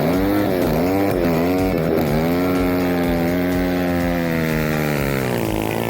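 Small petrol engine revving hard at a race start. Its pitch rises and falls several times in the first two seconds, then holds high and steady for about three seconds before dropping near the end.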